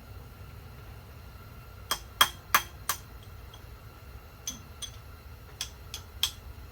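Small steel hand tools clinking and ringing against each other, as driver bits and sockets are picked out and knocked together. There are nine sharp clinks: a quick run of four, then five more spread out near the end.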